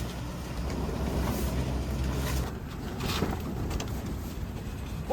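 Strong wind buffeting the microphone as a low rumble, easing off about halfway through.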